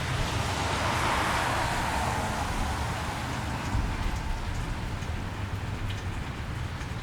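Steady rain falling on a wet street. About a second in, a passing vehicle's tyres hiss on the wet road, swelling and then fading over the next couple of seconds.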